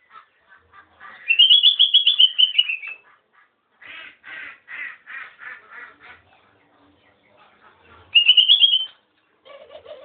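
Sooty-headed bulbul (kutilang) calling: a quick run of high notes that rises and falls about a second in, a softer series of evenly spaced notes in the middle, and a short burst of high notes near the end.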